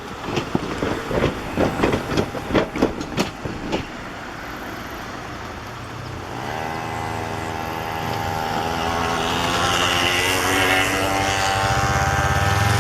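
Train passing: sharp rhythmic clacks of wheels over rail joints for the first few seconds, then a steady pitched drone from the train that grows louder toward the end.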